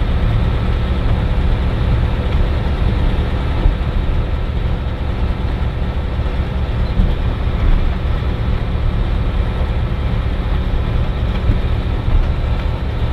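Cirrus SR20's four-cylinder piston engine running steadily, heard inside the cockpit as an even drone.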